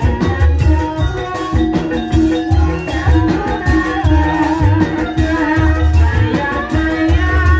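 Gamelan music for an ebeg horse dance: low drum strokes about once a second over ringing metallophone notes.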